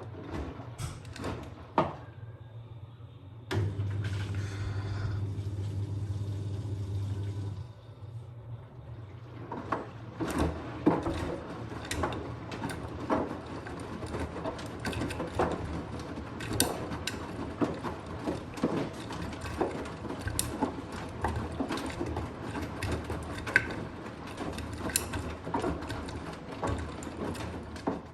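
Blomberg RapidJet washing machine running with a repeated, irregular knocking from inside the machine, the fault that has returned and is getting worse. Early on, a steady motor hum runs for about four seconds before the knocks set in.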